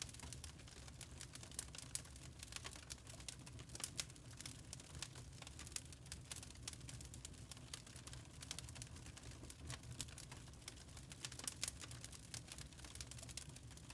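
Burning charcoal crackling: irregular, quiet small pops and ticks in quick succession over a steady low rumble.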